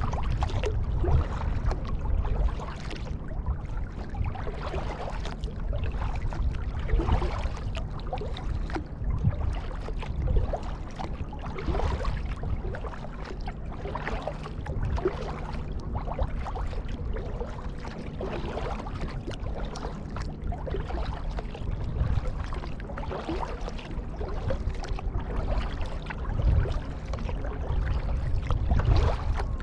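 Kayak paddling: the paddle blades dip and splash in the water in a regular rhythm, every second or two, over a steady low rumble of water moving along the hull.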